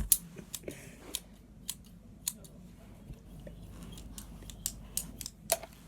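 A string of irregular sharp clicks and taps, about two a second, from the plastic toy alien egg being handled, which the children listen to as its heartbeat.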